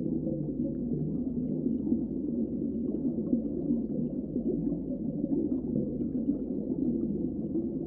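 Steady, muffled low rumble of seawater heard underwater, with no high sounds at all.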